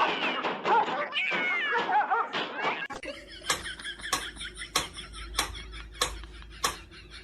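A cat meowing, with wavering rising and falling calls, for about three seconds. Then a series of sharp taps or knocks, about two to three a second, over a low hum.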